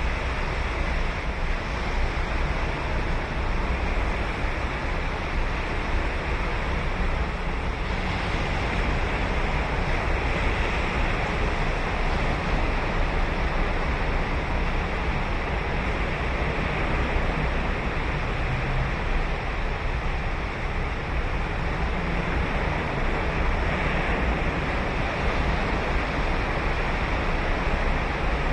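Ocean surf breaking and washing on a sandy beach, a steady wash of wave noise, with some wind on the microphone.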